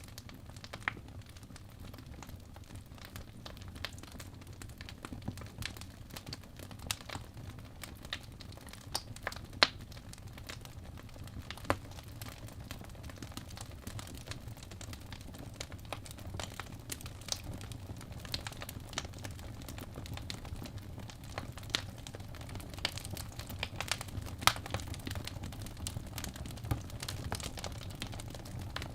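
Wood fire burning in a fireplace: a steady low rumble with irregular crackles and sharp pops from the burning logs, the loudest pop about ten seconds in.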